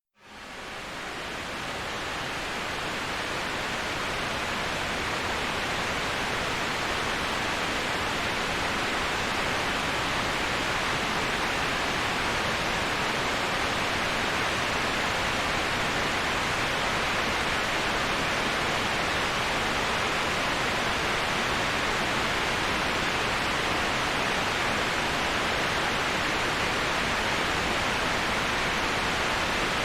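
Steady, even rush of a waterfall, starting from silence and swelling to full level over the first couple of seconds.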